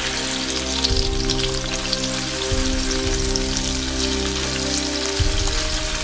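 Chicken breast fillets sizzling and crackling in hot olive oil in a frying pan, over background music.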